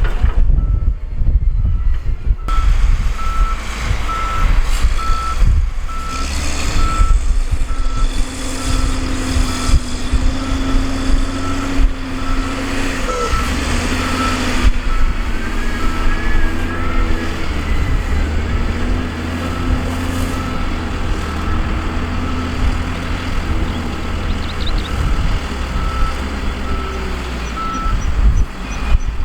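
Heavy diesel construction machinery running, with a backup alarm beeping in a steady rhythm from a couple of seconds in until near the end: a machine reversing.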